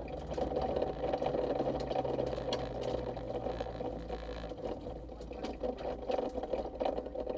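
Honda CR-X rally car's engine running steadily, heard from inside the stripped-out cabin, with many sharp ticks and rattles over the drone.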